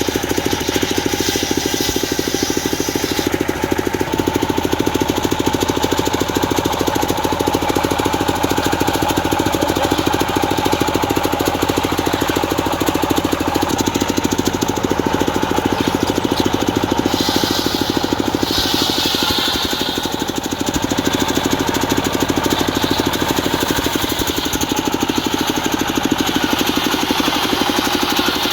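Diesel engine driving a home-built circular saw, running steadily with a fast, even knocking beat. Higher hissing comes and goes in the first few seconds and again around two-thirds of the way through.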